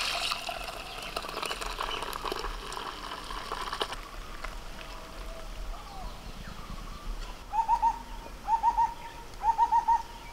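Frothy milk poured from a steel bowl into a clay pot, a liquid splashing sound that fades out over the first few seconds. From about halfway, a bird calls repeatedly in quick clusters of three or four notes, about once a second, louder than the pouring.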